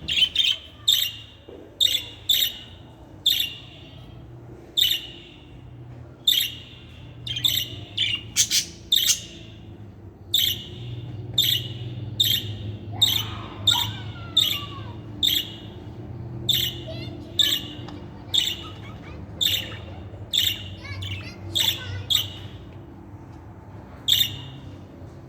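Budgerigar giving short, sharp chirping calls over and over, about one or two a second, over a low steady hum.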